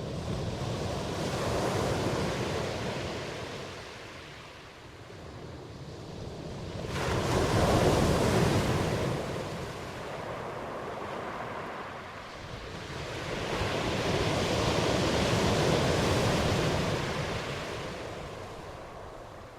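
Ocean surf, waves rushing in and washing back in three slow swells, the middle one starting abruptly about seven seconds in and the loudest.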